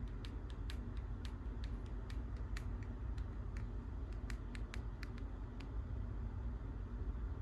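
A run of light, irregular clicks from a cat toy being played with, about twenty of them, stopping a little over five seconds in. Under them runs a steady low hum.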